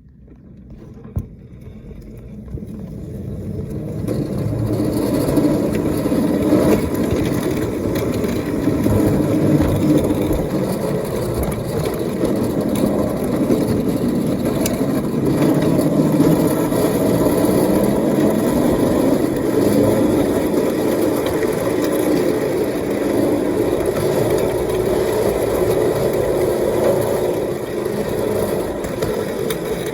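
A 5-inch gauge Maxitrak Planet live-steam locomotive running on its track, a steady mechanical running noise that builds up over the first few seconds and then holds. A single sharp click sounds about a second in.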